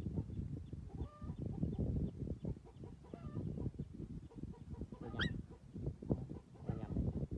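Short animal calls over a dense low rumbling noise, with one rising squeak about five seconds in.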